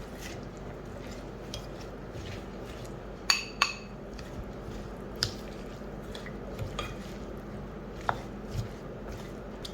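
Utensil clinking and scraping against a mixing bowl while cubed pineapple and cucumber are tossed in sambal belacan for Nyonya rojak. Two sharp ringing clinks come about three and a half seconds in, with lighter scattered knocks after.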